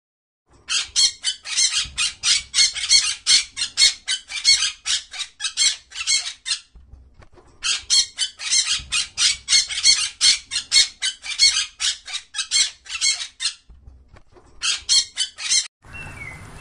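A bird's rapid, harsh squawking calls, about five a second, in two long runs and a short third one with brief pauses between. The calls stop abruptly near the end.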